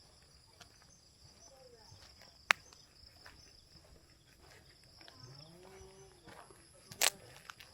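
Steady high-pitched chirring of insects at dusk, with two sharp clicks, one about a third of the way in and a louder one near the end. A faint distant call sounds shortly before the second click.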